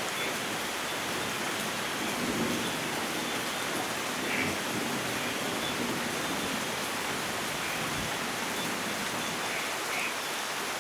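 Steady rainfall, an even hiss of rain pattering on surfaces.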